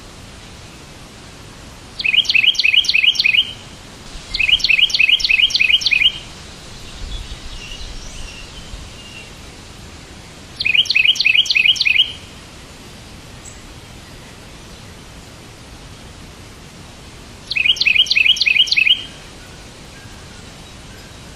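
A songbird singing four short bursts, each a quick run of about seven repeated high notes, with softer chirping between the second and third burst, over a steady background hiss.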